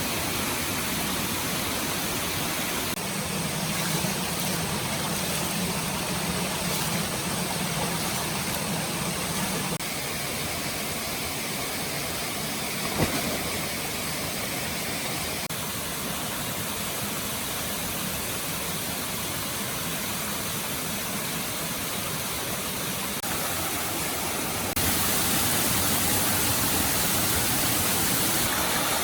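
Steady rushing of a flowing stream, shifting in tone at a few points, with one sharp click about halfway through.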